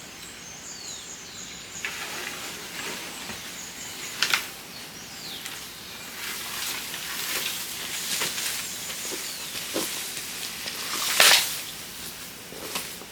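Green bamboo being split by hand: rustling and scraping of the poles, with a sharp crack about four seconds in and a louder one near eleven seconds.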